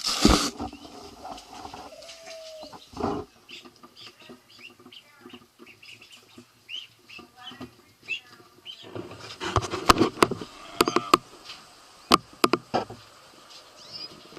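Birds calling with a string of short chirps and clucks, with a loud knock at the start and a cluster of sharp clicks or taps about ten to thirteen seconds in.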